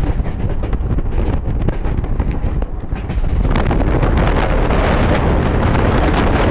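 DC EMU electric suburban train running at speed, a heavy steady rumble of wheels on track mixed with strong wind on the microphone. About three and a half seconds in the noise grows louder and brighter and stays so.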